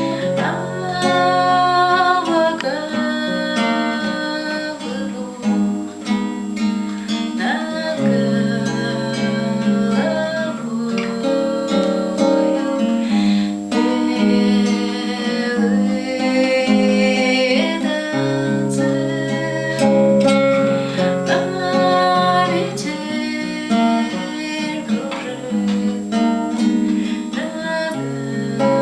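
Acoustic guitar played under a singing voice carrying a melody, as part of a live acoustic song.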